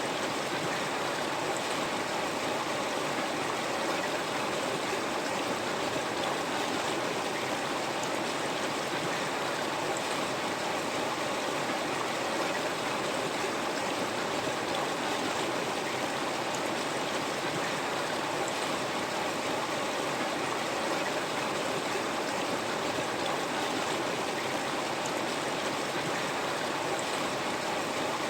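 River water flowing over stones in a steady, even rush with a little gurgling.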